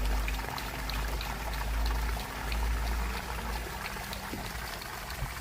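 Water from a 1/3-horsepower outdoor sump pump's discharge pouring out steadily, under a low rumble that swells and fades.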